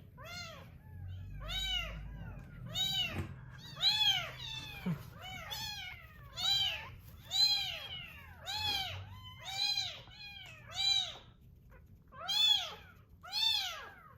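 Very young rescued kittens mewing: a run of high-pitched cries, about one a second, each rising and then falling in pitch.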